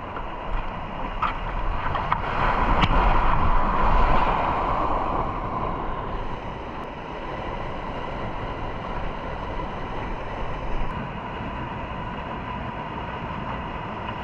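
Rushing whitewater as a packraft drops over a small waterfall, loudest a couple of seconds in, then settling to a steady rush of flowing water.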